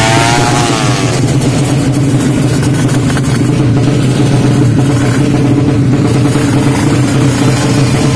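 Race-tuned Yamaha Jupiter motorcycle engine, bored up to 155 cc, running loud: its pitch falls during the first second, then it holds one steady note.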